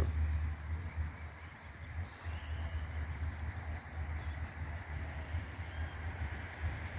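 Baby birds peeping: many quick, high-pitched begging calls as the parent birds feed them. The calls thin out after a few seconds.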